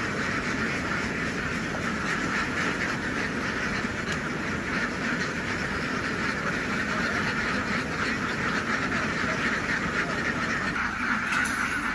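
A large flock of ducks quacking together in a dense, continuous din.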